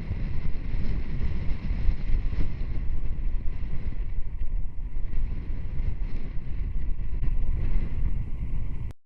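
Wind buffeting the microphone on a moving motorcycle, a dense steady rush with the ride's rumble underneath. It cuts off suddenly near the end.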